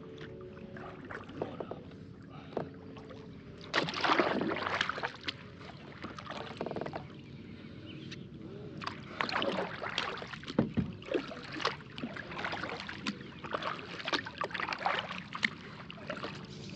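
Kayak paddle strokes in water: a run of short splashes, roughly one a second, starting about four seconds in.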